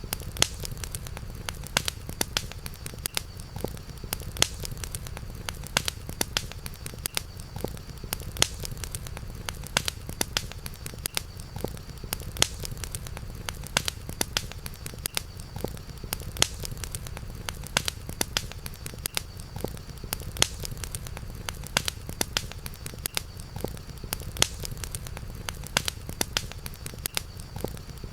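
Campfire crackling, with frequent sharp irregular pops over a steady low rumble and a faint steady high tone.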